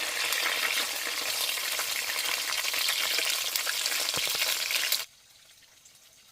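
Food frying in hot oil in a pan: a loud, steady sizzle with fine crackling that cuts off abruptly about five seconds in.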